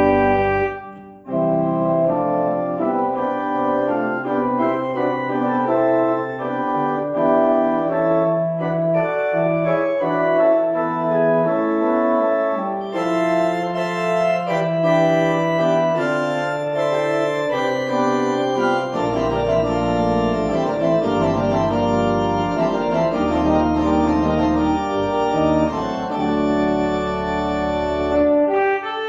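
Church organ playing a postlude: sustained chords, with a short break about a second in and deep bass pedal notes joining about two-thirds of the way through.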